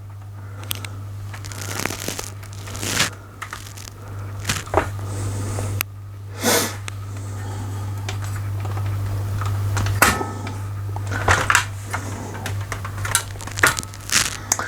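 Rexel LV250HS laminator's drive motor running with the cover off: a steady low hum with the roller cogs turning, and scattered clicks and knocks. No grinding or strange noises, a sign that no more paper or laminating pouch is jammed in the rollers.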